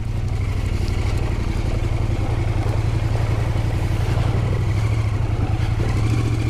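Husqvarna Norden 901 adventure bike's parallel-twin engine running steadily at low revs as the motorcycle is ridden slowly through a wet, slippery stretch of trail.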